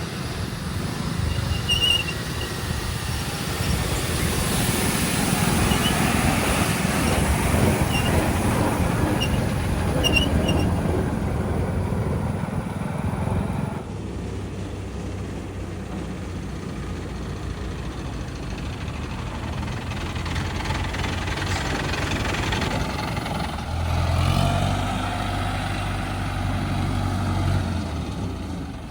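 Heavy diesel engines of the earth-moving machines and trucks running: loud, dense working noise for about the first half, then it drops suddenly to a steadier engine sound. Late on, a deeper engine note of steady pitch swells for a few seconds and then falls away.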